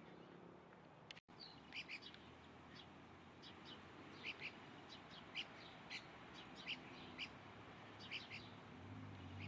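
A bird calling in short, high chirps, repeated every half second to a second, starting a little over a second in.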